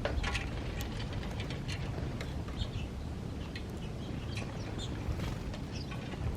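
Small birds chirping: many short scattered calls, several overlapping, over a steady low rumble.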